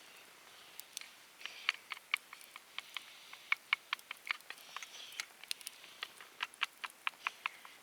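Wood fire burning in a fire pit, crackling with sharp, irregular pops several times a second over a faint hiss. The pops start about a second in.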